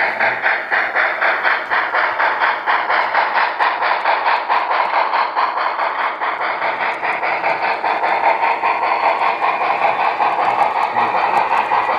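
Model train, a Northern Pacific A-3 4-8-4 steam locomotive pulling a 22-car freight, running steadily with an even rhythmic clicking of about five beats a second.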